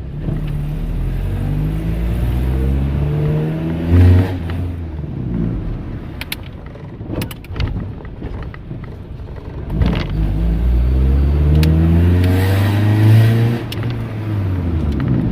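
Honda D16 inline-four engine in a 1991 Civic accelerating in gear: the revs climb for about four seconds and then fall at a gear change with a loud thump. After a few seconds of lower running and scattered knocks and rattles from the car, the engine pulls again from about ten seconds in, revs rising for three or four seconds and then easing off.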